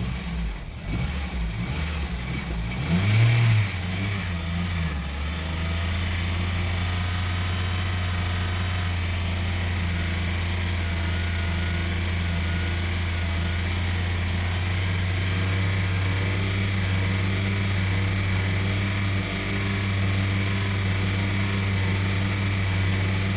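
A 2002 Honda CR-V's 2.4-litre four-cylinder engine revs up under the throttle over the first few seconds, then is held steady at about 3000 RPM. The engine suffers from a rough idle and, by the owner's account, will not accelerate well even at this speed.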